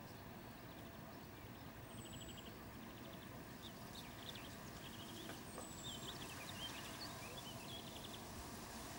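Songbirds singing over a faint, steady low background hum. A thin, very high whistle falling in pitch repeats about every three and a half seconds, and rapid rattling trills and quick chirps come in from about two seconds in.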